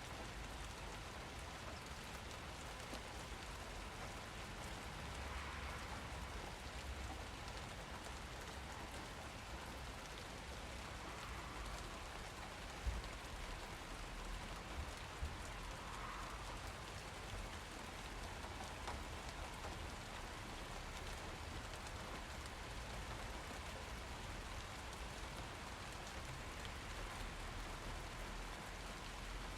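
Steady rain falling and pattering on surfaces, with a few sharp drip knocks about halfway through.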